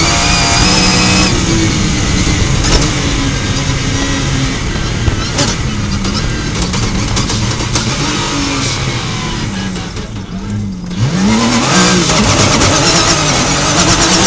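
Rally car engine heard from inside the cockpit, running hard at high revs, then easing off as the car slows from speed for a tight corner. The engine drops low about ten seconds in, then revs up sharply as the car accelerates out, with rumble from the dirt track underneath.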